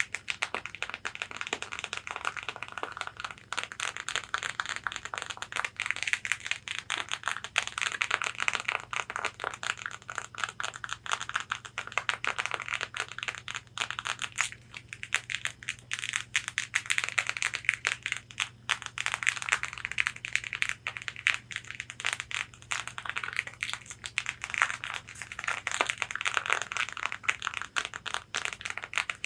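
Long fingernails tapping and scratching rapidly on a corset bodice: a quick, irregular patter of clicks mixed with scratchy strokes over the fabric, rising and easing in swells.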